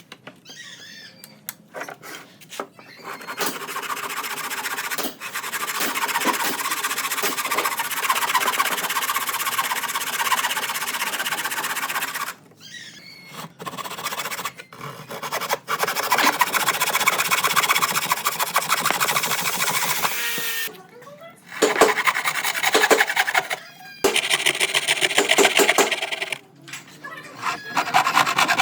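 A tool working wood, giving a dense, fast-repeating noise in two long runs with short breaks, then in shorter bursts with pauses near the end.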